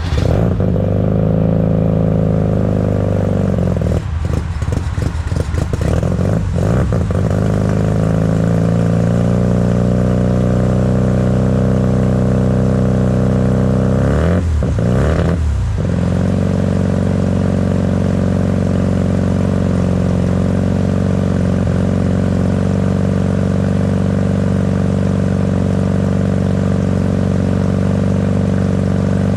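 Mazda 13B two-rotor rotary engine running fast idle just after a cold start, heard close up. Its speed wavers unevenly for a few seconds about 4 s in and again briefly around 14 s in, then settles into a steady idle.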